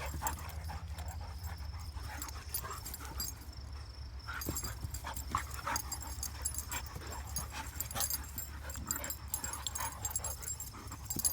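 A dog whimpering, with scattered short clicks over a steady low hum.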